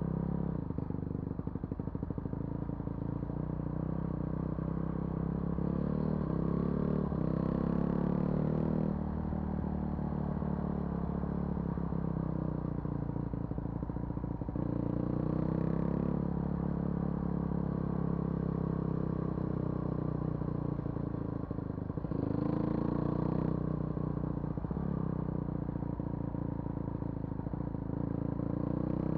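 A vehicle's engine running as it drives along a rough forest road. The engine note climbs and eases off three times, with rattles and knocks from the vehicle going over the uneven surface.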